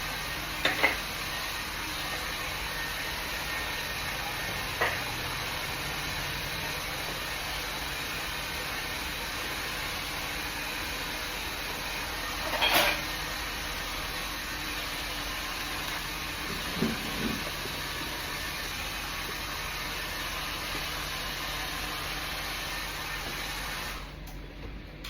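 Steady background hiss with a few brief clicks and taps in it, like a spoon on a bowl; the hiss drops away near the end.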